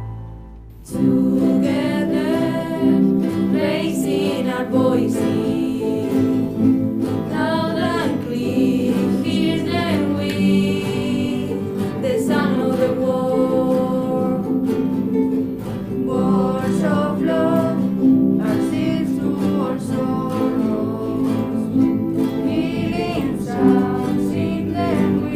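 A song sung over plucked acoustic guitar starts about a second in, just after the preceding music fades out.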